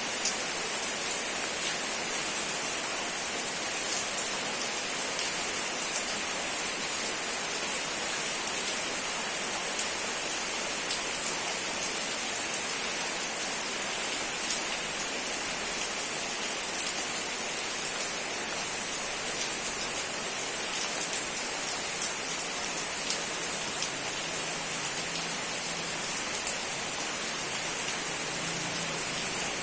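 Steady rain falling, an even hiss with a few louder individual drop taps now and then.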